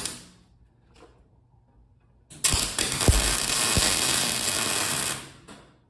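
Electric arc welding a weld onto steel: the arc strikes about two seconds in, runs with a steady, loud hiss for about three seconds with a few low thuds, then stops.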